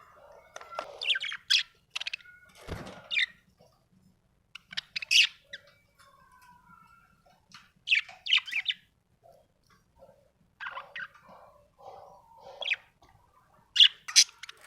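Budgerigar chirping and warbling in short bursts: quick high chirps mixed with lower chattering phrases, with pauses between.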